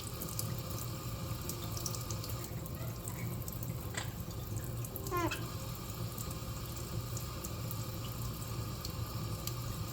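Tap water running steadily into a sink for a parrot's bath, with a short bird call about four seconds in and a quick falling series of chirps about a second later.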